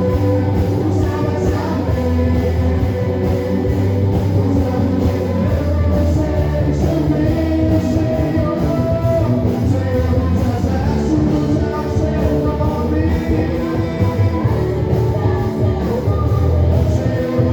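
Live worship band playing with singing: a strong bass line, drums and steady percussion under a loud, continuous rock-style song.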